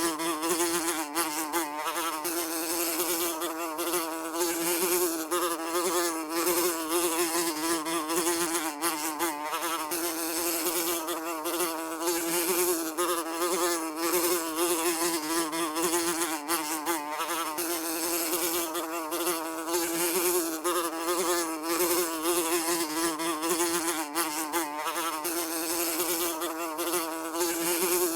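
A fly buzzing continuously, its wingbeat hum wavering a little up and down in pitch as it flies about.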